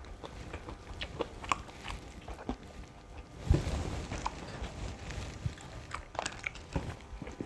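A person chewing and biting crispy fried chicken, with small scattered crunches and mouth clicks. A single low thump about three and a half seconds in.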